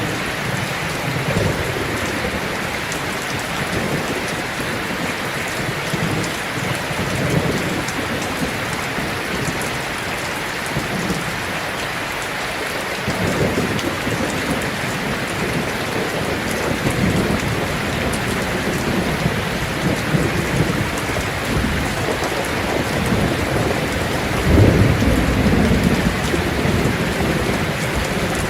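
Heavy rain drumming steadily on a tin roof, with low rolls of thunder rumbling now and then. The loudest roll comes about three quarters of the way through.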